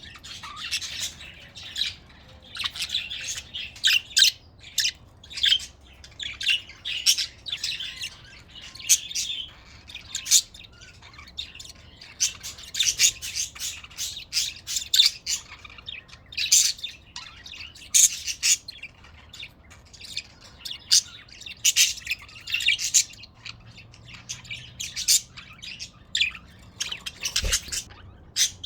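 Budgerigars chirping and chattering: a dense, continuous stream of short, high calls and squawks, with a single low knock near the end.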